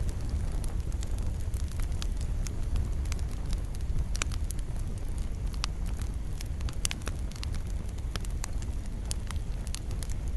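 Wood fire burning with a steady low rumble and irregular sharp crackles and pops, a few of them louder, about four seconds in and again near seven seconds.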